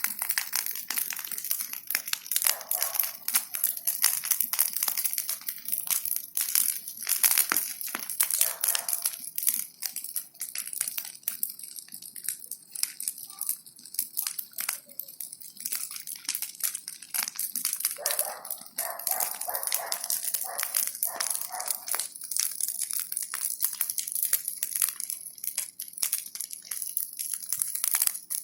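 Bonfire of brushwood and branches burning, with dense, continuous crackling and snapping of the burning wood.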